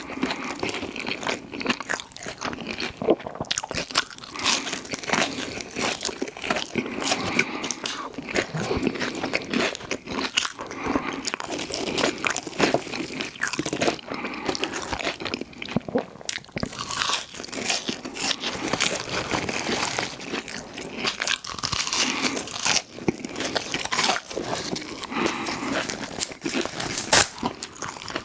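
Close-miked eating: crunchy bites and chewing, one after another with no pause.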